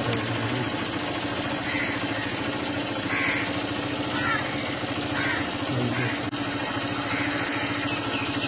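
Bird calls, about four of them roughly a second apart, over a steady low hum, with faint higher chirps near the end.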